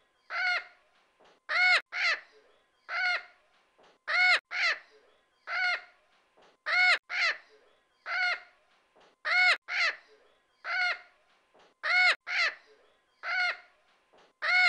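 A crow cawing over and over in an even rhythm, a double caw followed by a single caw, repeating about every two and a half seconds.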